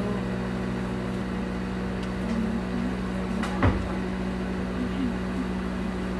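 A steady low hum, like a running household appliance, with one sharp knock a little past halfway.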